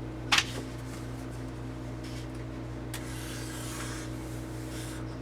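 A marker drawing on paper: a short click about half a second in, then a faint scratchy rubbing of the tip on the paper in the second half, over a steady low electrical hum.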